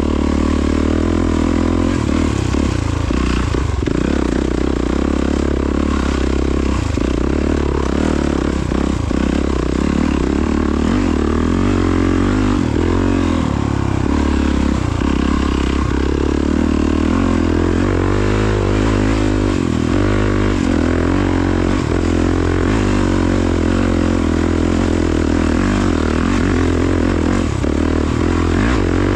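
Honda CRF450RWE's 450 cc single-cylinder four-stroke engine being ridden off-road, its revs rising and falling continually as the rider works the throttle.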